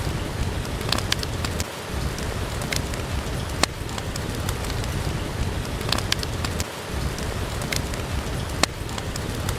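Steady rain with a wood fire crackling, sharp pops coming every second or two over the hiss of the rain.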